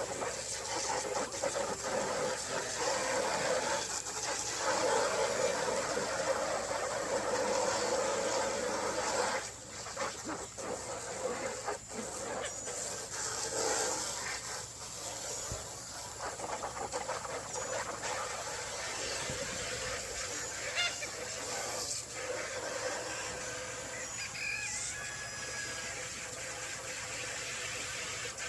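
Chickens in a coop, a few faint clucks and short chirps over a steady hiss of rustling and background noise.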